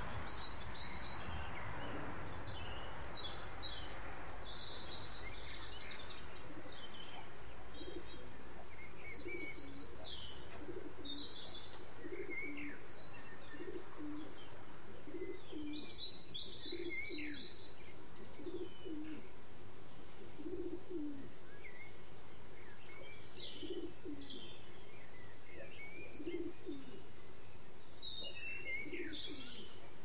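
Birds calling: low coos repeated about once a second, with higher chirps and tweets scattered over them.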